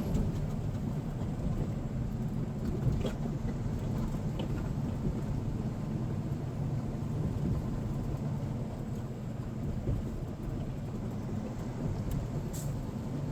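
Steady low rumble of a semi-truck's engine and tyres while driving, heard inside the cab, with a faint click about three seconds in and another near the end.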